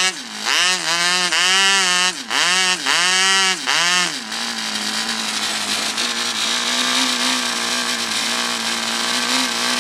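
Cox .049 two-stroke glow model engine with an exhaust throttle sleeve, blipped from idle to full throttle and back four times in quick succession, then left at a steady high-pitched idle from about four seconds in. The pitch rises and falls with no hesitation.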